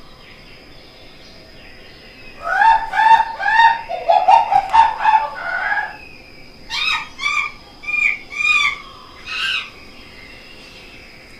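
Bird calls in two runs of short, repeated chirps: the first starting about two and a half seconds in, the second after a short pause and ending near the three-quarter mark.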